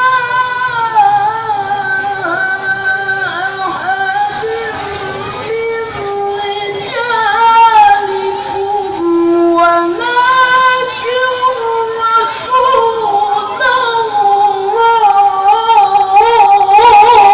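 A child's voice in melodic Quran recitation (tilawah), holding long notes decorated with wavering turns and slides in pitch.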